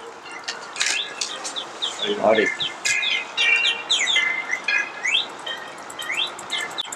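Small birds chirping in quick, repeated short chirps that rise and fall in pitch, with a brief low sound about two seconds in.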